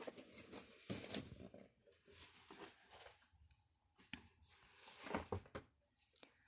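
Near silence with faint scattered rustles and a few soft clicks, about one second in, around four seconds, and a small cluster just after five seconds.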